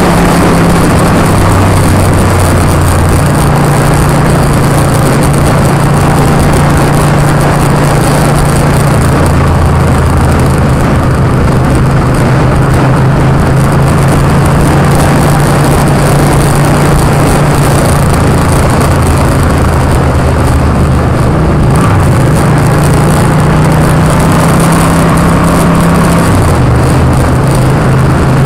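Motorcycle engine running at a steady road cruise, heard from on the moving bike under heavy wind rush on the microphone. The engine note steps down in pitch a few seconds in and shifts again near the end as the throttle changes.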